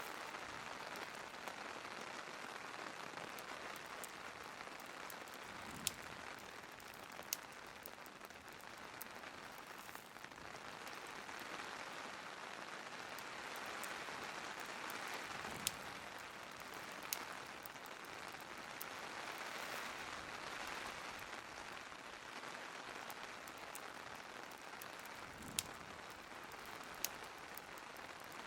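Steady hiss of rain mixed with a crackling wood fire. Sharp pops come in pairs about a second and a half apart, roughly every ten seconds.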